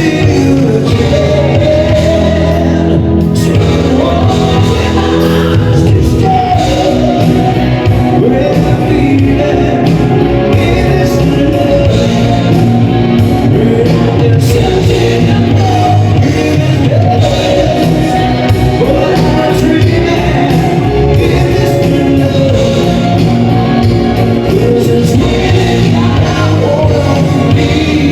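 A live band playing a song with a lead singer, loud and steady, in a large hall.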